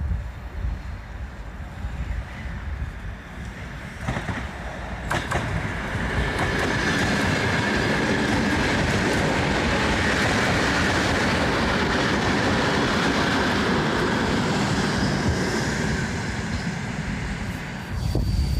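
ED9M electric multiple unit passing at speed: wheels rumbling and clattering over the rails. It builds from about four seconds in, holds steady with a high tone running through the noise, and drops off sharply near the end.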